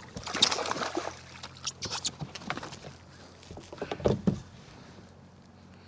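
Irregular splashing and knocking around a fishing kayak while a hooked bass is fought and brought aboard, busiest in the first second and again around two seconds in, with a short burst near four seconds.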